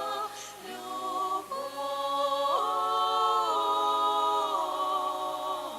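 A women's folk ensemble singing a cappella in harmony, several voices holding a long drawn-out chord that shifts pitch together, on the word before "любовь" at the end of a refrain.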